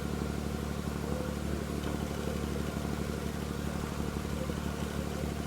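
Steady low drone of the dive yacht's engine running, level and unchanging.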